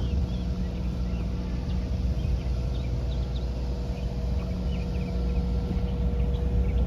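A steady low motor hum with a thin steady whine over it, and small birds chirping in short high notes throughout.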